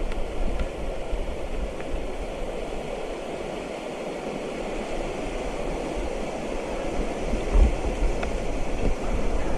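Steady rushing noise of a mountain bike ride beside a river, with wind buffeting the microphone more strongly near the end, and a few light clicks.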